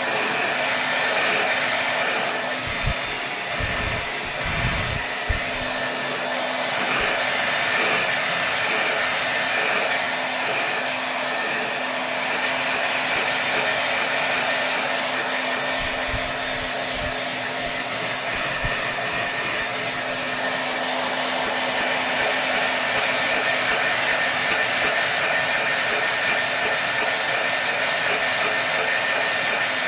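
Hair dryer running at full power: a steady rushing of air with a low motor hum, and a few brief low thumps a few seconds in and again past the middle.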